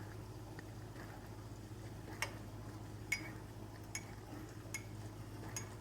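A metal spoon clinking against a coffee mug while stirring coffee, five light ringing clinks about a second apart, starting about two seconds in.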